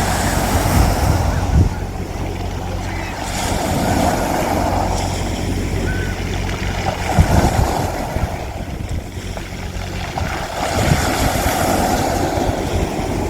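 Sea waves washing onto a beach, the surf swelling and falling away about every three to four seconds, over a steady low hum and occasional low rumbles.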